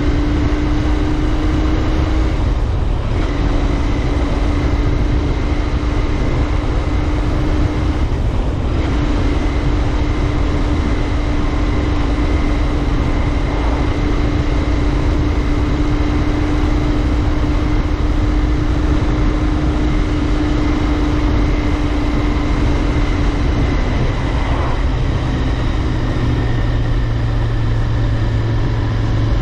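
Royal Enfield Interceptor 650's parallel-twin engine running at a steady cruise under a haze of wind and road noise. The engine note breaks off briefly twice in the first nine seconds and drops to a lower pitch near the end.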